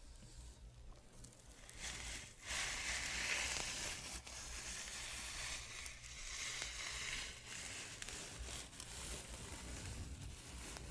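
Soft scratching made as an ASMR trigger, a rough hissing texture in uneven strokes that gets louder about two and a half seconds in.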